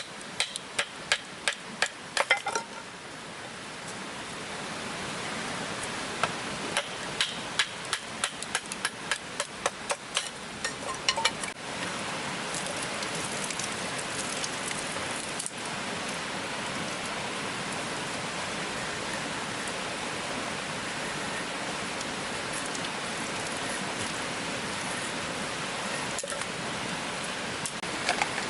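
Steady rain falling, with runs of quick sharp taps over it at the start and again from about six to eleven seconds in.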